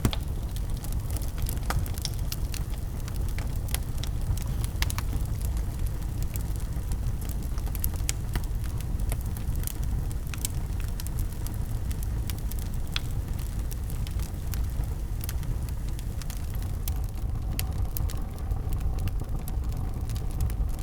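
Wood fire crackling and popping, with frequent sharp snaps over a steady low rumble of the flames.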